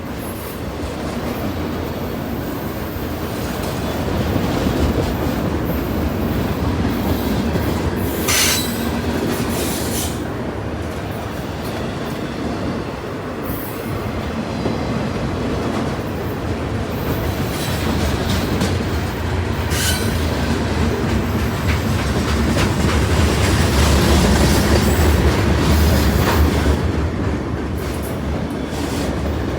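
A train's cars rolling past on the track, a steady heavy rumble with wheels clacking over the rail joints and brief squeals of wheel on rail, the first about eight seconds in and another about twenty seconds in.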